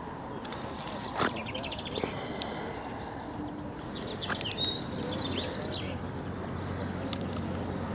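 Small birds chirping in short, scattered calls, with a few faint clicks among them.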